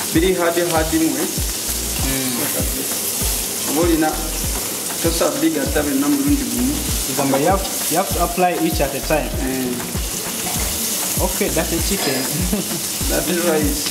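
Sliced carrots and red onions sizzling as they fry in oil in a pan, stirred and turned with a spatula. A wavering melodic sound runs faintly in the background.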